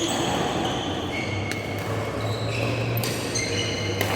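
Badminton play on an indoor court: shoes squeaking briefly and repeatedly on the court floor, with sharp racket hits on the shuttlecock about every second and a half.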